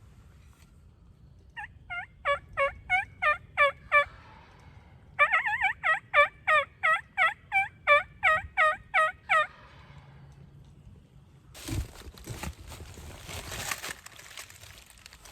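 Wild turkey yelping: two runs of evenly spaced, loud notes at about three a second, the first of about seven notes and the second of about fourteen. Near the end comes a stretch of rough rustling noise.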